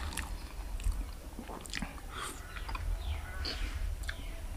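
A person chewing a mouthful of curry and rice, with quiet chewing and small wet mouth clicks.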